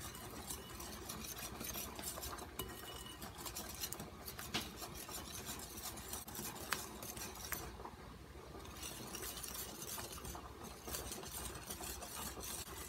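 Wire whisk beating flour into pancake batter in a glass mixing bowl: a rapid, continuous scraping and ticking of the wires against the glass, with a few sharper clinks. The whisking eases for a moment a little past halfway, then picks up again.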